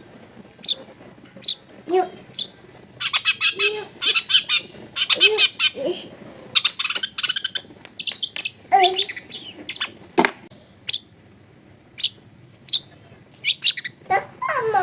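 Long-tailed shrike (cendet) singing in full voice: short sharp call notes broken by fast chattering runs, a song rich in notes borrowed from other birds.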